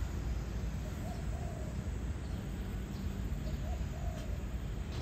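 A bird giving low hooting calls in short pairs, over a steady low rumble.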